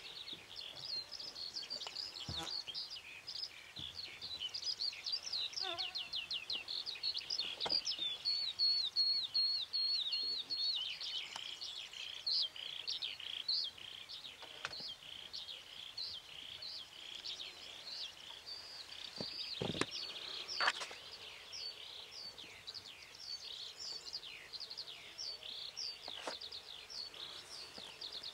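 A small bird singing a long, fast, high-pitched twittering song without pause, loudest about a third of the way in, with a few faint knocks.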